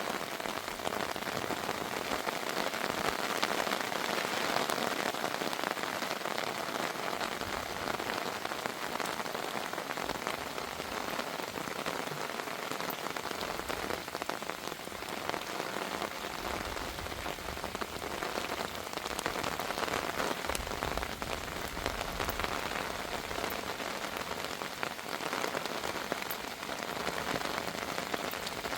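Heavy rain falling steadily, a dense wash of drops hitting a surface. A deeper low rumble joins in from about halfway through.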